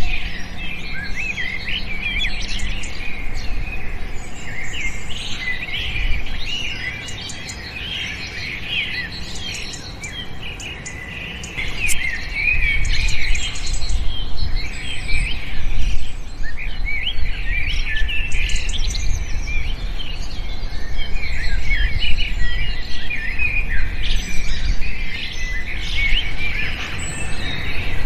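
Many small birds chirping and twittering at once, a dense chorus of short, high, overlapping chirps that grows busier about halfway through, over a low rumble.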